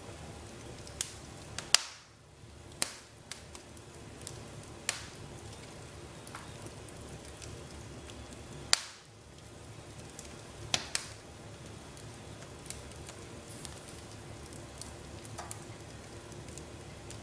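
Wood fire in a fireplace crackling, with irregular sharp pops over a steady low hiss; the loudest pops come about two seconds in and about nine seconds in.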